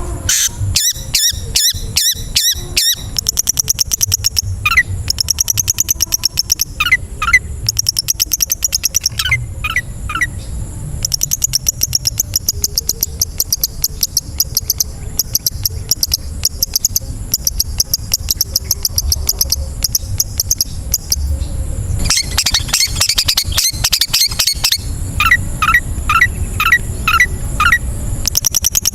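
Long-tailed shrike song: fast runs of sharp, very high chips at several per second, broken by small groups of short falling whistles, over a steady low background rumble.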